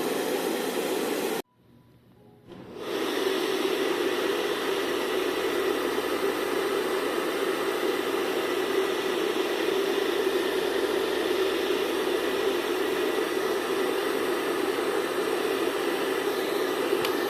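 Handheld hair dryer blowing steadily, a whooshing rush of air with a faint whine. It cuts out about a second and a half in and comes back a second or so later.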